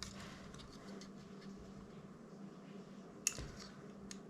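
Quiet handling of small parts and tools at a workbench, with a few faint ticks and one sharp click a little over three seconds in, over a steady low hum.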